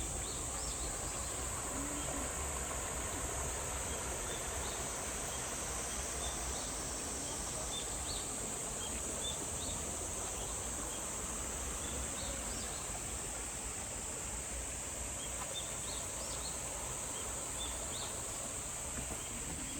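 Insects droning steadily in one high-pitched band, with short high chirps scattered throughout over a steady background hiss.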